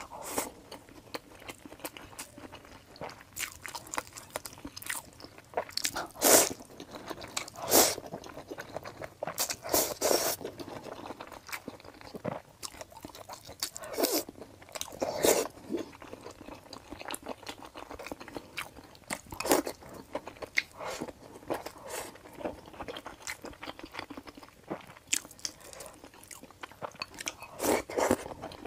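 Close-miked mouth sounds of a person eating rice, noodles and soft pieces from a spicy broth with chopsticks: irregular chewing and biting, with a few louder strokes here and there.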